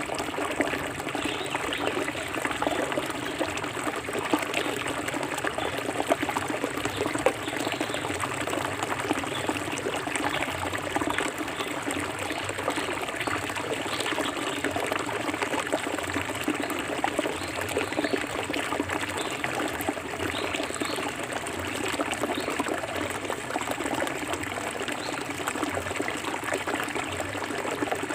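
Clear forest stream flowing steadily over stones, a continuous babbling and trickling with small splashes.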